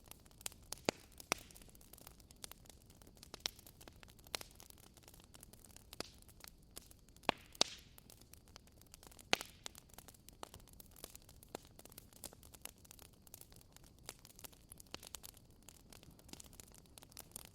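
Wood bonfire burning: a soft hiss with irregular crackles and snaps, a few sharp loud pops among many small ones.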